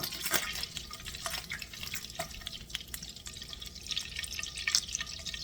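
Irregular drips and small splashes of water, a scatter of short ticks.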